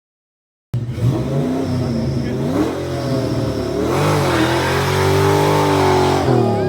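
Ford Mustang engine revved hard through its exhaust in several rising and falling blips, then held high for a moment before dropping back. It cuts in suddenly out of silence just under a second in.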